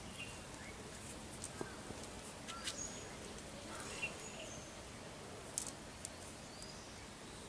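Birds calling in short, scattered chirps and whistles over a faint steady outdoor background, with a few brief sharp clicks.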